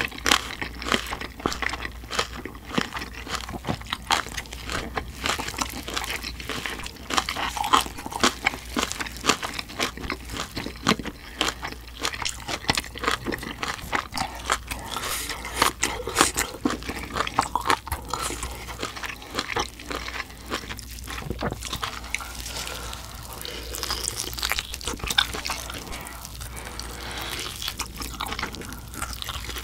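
Close-miked eating sounds of biting and chewing roast pork knuckle (Schweinshaxe): a continuous run of small sharp crunches and clicks.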